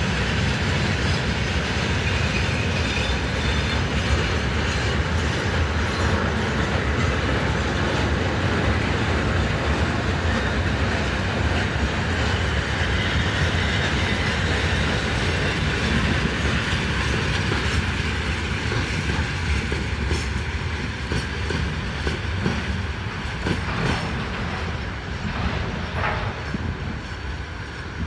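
Freight train rolling past, its wagons' wheels clattering rhythmically over the rail joints; the noise eases off over the last few seconds as the train draws away.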